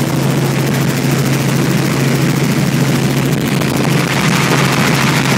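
Helicopter in flight heard from inside the cabin: steady engine and rotor noise with a strong low hum over a constant rushing noise.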